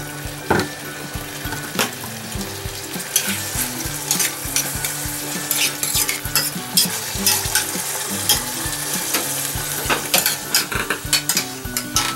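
Broccoli and shirasu sauce sizzling in a stainless steel saucepan as a metal spoon stirs it, scraping and clinking against the pan many times.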